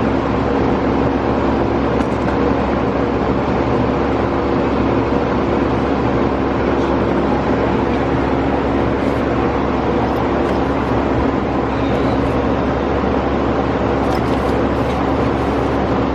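A car running steadily: a constant engine hum with an even rush of road or wind noise over it, holding the same pitch throughout.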